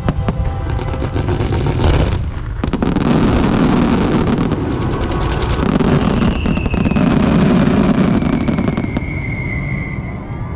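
Rapid barrage of fireworks going off in a star mine finale: dense booms and crackle, growing loud about three seconds in. A long falling whistle runs over the later part.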